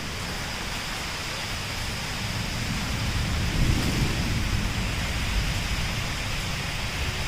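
Heavy rain falling steadily, with a low rumble rising and falling beneath it.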